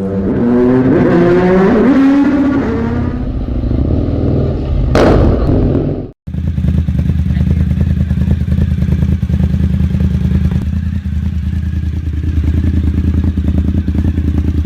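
Cagiva Raptor 1000's V-twin engine, through an aftermarket exhaust, revving up and down several times, with a sharp crack about five seconds in. After a brief break about six seconds in, it idles with a steady, even pulse.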